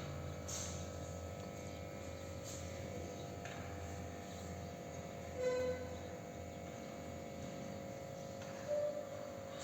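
Two short pitched bird calls, the louder about halfway through and a shorter one near the end, over a steady electrical hum.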